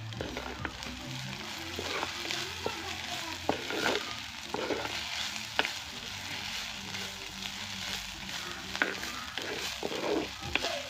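Dried shrimp frying with a steady sizzle in a clay pot, stirred with a wooden spoon that scrapes and knocks against the pot at irregular moments.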